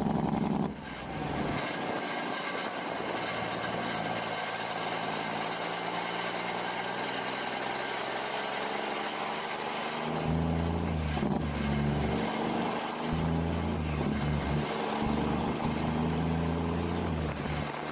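Straight-piped semi truck's diesel engine running and then pulling hard through the gears in the second half. At each shift, every two to three seconds, the engine note breaks off and the turbo whistle, rising until then, drops away.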